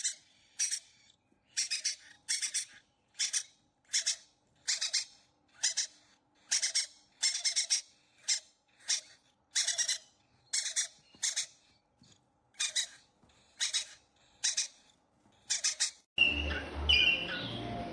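Parrot calling over and over: short, harsh calls repeated evenly at a little over one a second. About sixteen seconds in, the sound cuts abruptly to a louder, steady noise with a low hum.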